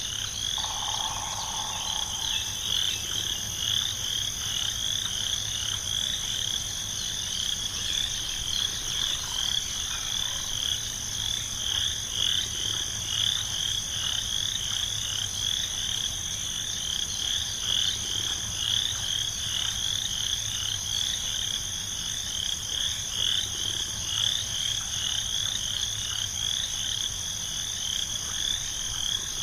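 Frogs calling in a continuous chorus, a high call repeating at an even rhythm over a steady high-pitched drone. A short, lower tone sounds briefly about a second in.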